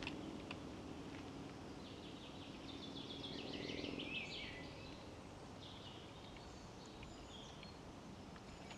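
Songbirds singing in the trees: a fast run of high, descending notes about three seconds in, then a few shorter calls. Underneath is a faint low hum that fades away partway through.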